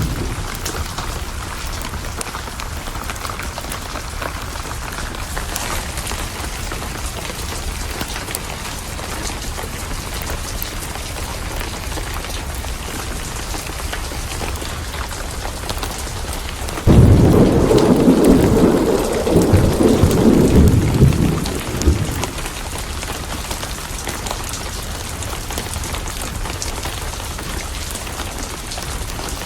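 Steady rain with a fireplace crackling. A little past halfway, thunder breaks in suddenly and rumbles loudly for about five seconds before fading back into the rain.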